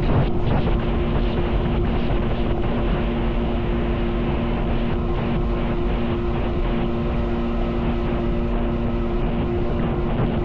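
Jet ski engine running at a steady speed, its drone holding one pitch over a dense rush of noise.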